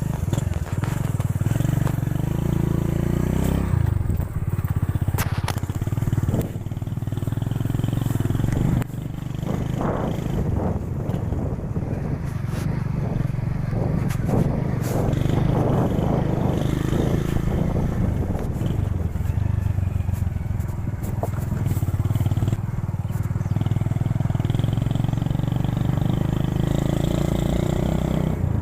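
Motorcycle engine running as it is ridden, its pitch rising and falling with changes in speed.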